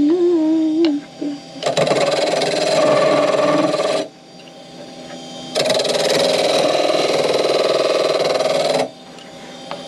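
Wood lathe running, with a turning tool cutting the spinning workpiece in two passes of two to three seconds each, the first starting about two seconds in and the second about halfway; the lathe runs on more quietly between and after. A pitched whine stops about a second in.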